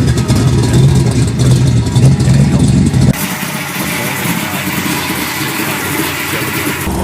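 Big-block V8 engine running loud and uneven with a deep pulsing note, revving. About three seconds in it cuts off sharply to a quieter, hissy vehicle noise with little low end.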